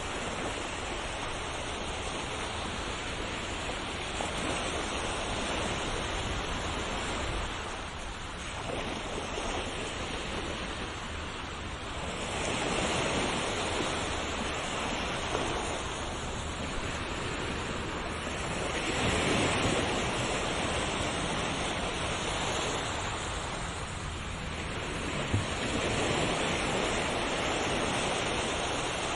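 Ocean waves breaking on a shore in a continuous wash, swelling louder every six or seven seconds as each wave comes in and falling back between.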